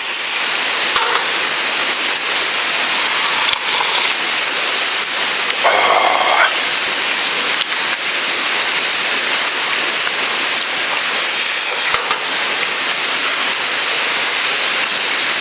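Steady rushing of a river flowing past, with a thin, steady high whine over it and one short call about six seconds in.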